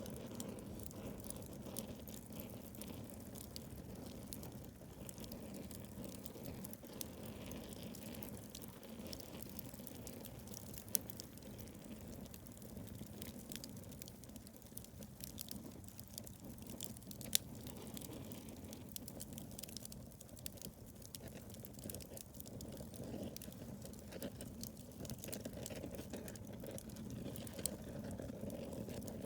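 Wood bonfire burning, with a steady low rush of flames and frequent small crackles and pops. Two sharper pops stand out, about eleven and seventeen seconds in.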